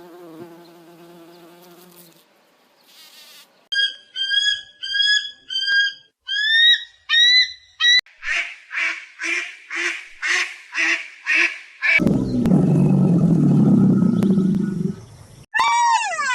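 A series of different animal calls, one after another: a short pitched call, a run of repeated high chirps, evenly spaced calls about twice a second, a low rough stretch, and near the end a wavering meow-like call.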